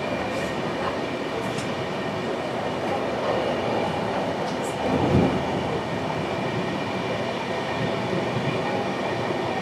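Passenger train running, a steady rumble and hiss with a few sharp clicks and a louder dull thump about five seconds in.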